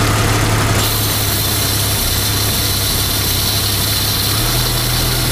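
A 1990 Jeep Cherokee XJ's 4.0-litre inline-six idling steadily on newly fitted fuel injectors and a new fuel pressure regulator. Its note shifts slightly about a second in and again near the end.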